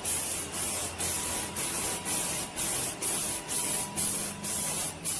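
Hissing spray in short, even pulses, about two a second, that stops abruptly at the end.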